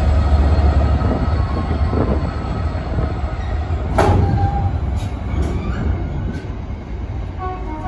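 A GBRf Class 66 diesel locomotive's deep engine rumble fades as it passes. A rake of hopper wagons then rolls by, its wheels clacking over rail joints, with a sharp knock about four seconds in, a few lighter knocks after it, and brief wheel squeal.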